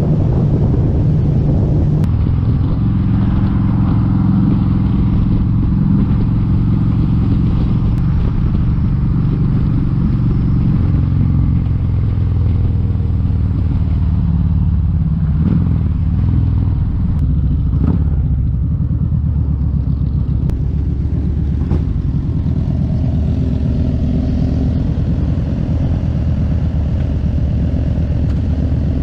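Kawasaki Vulcan 1700 Vaquero's V-twin engine running steadily on the move. Its pitch rises about two seconds in and drops about eleven seconds in.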